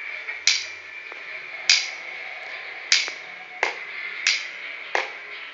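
A series of sharp, snap-like clicks, six in all, coming roughly once a second and a little faster in the second half, over a faint steady high tone.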